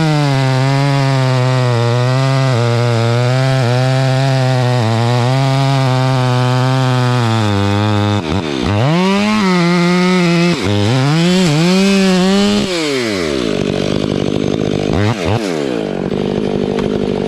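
Large two-stroke chainsaw cutting under load through the trunk of a fir at a steady high pitch, then let off and opened up again twice, dropping to idle about 13 seconds in, with one quick blip of the throttle about two seconds later.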